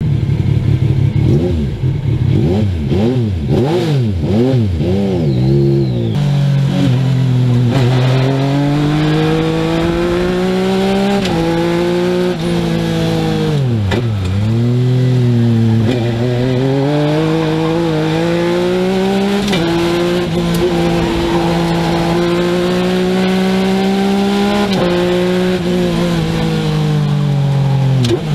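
A Legend car's motorcycle-derived engine heard from inside the cockpit while driving. Its pitch rises and falls quickly several times at first. Then it pulls up through the revs in long sweeps, drops sharply about halfway as it comes off the throttle, climbs and holds a steady note, and eases off near the end.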